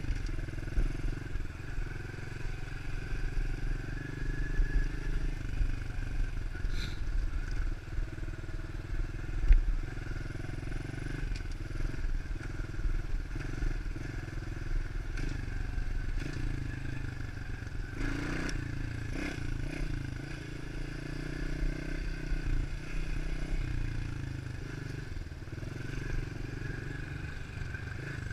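110cc pit bike's single-cylinder four-stroke engine running while being ridden, the revs rising and falling, with a sharp knock about a third of the way in.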